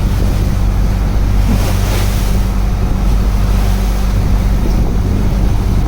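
Wooden fishing boat's engine running steadily with a low hum, under wind noise on the microphone and the wash of the sea.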